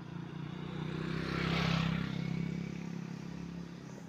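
A motor vehicle passing close by, its sound swelling to a peak under two seconds in and then fading, over a steady engine hum.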